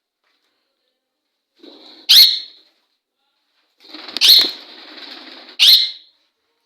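Parrots calling: three loud, harsh squawks, about two, four and six seconds in, with a softer rough noise running between the last two.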